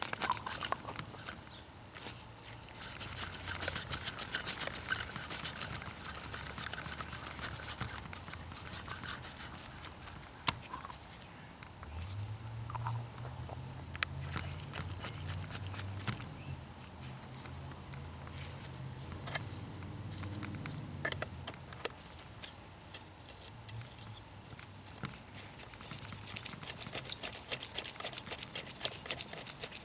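Hand tool turning the exhaust bolts back in on an Echo SRM 230 trimmer, with small metal parts being handled: a run of rapid fine clicking a few seconds in, then scattered sharp clicks and knocks.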